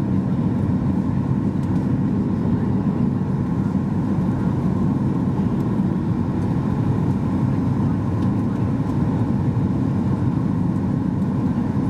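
Steady cabin noise inside a Boeing 737 MAX 8-200 in flight: the rumble of its CFM LEAP-1B engines and the rush of air past the fuselage, even throughout, with most of it low down.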